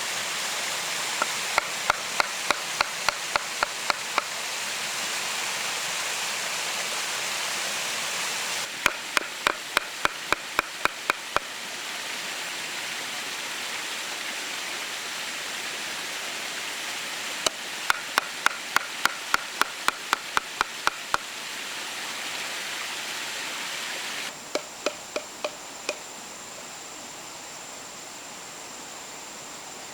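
Runs of quick, evenly spaced chopping strikes, about three to four a second and five to thirteen strikes per run, four times over a steady rushing noise.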